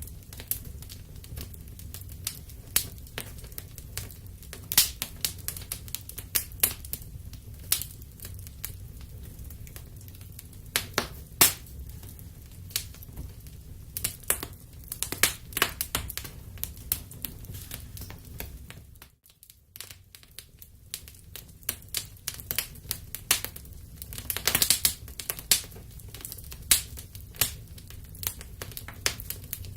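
Wood fire crackling in a fireplace: irregular sharp pops and snaps over a steady low rumble. The sound briefly drops out about two-thirds of the way through, then the crackling resumes.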